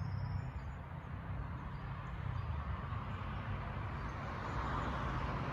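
Steady low background rumble with an even hiss over it, and a few faint high bird chirps right at the start.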